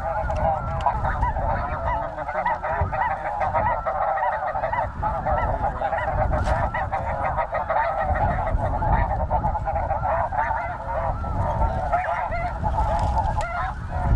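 A huge flock of snow geese calling, a dense unbroken chorus of many overlapping high yelping honks.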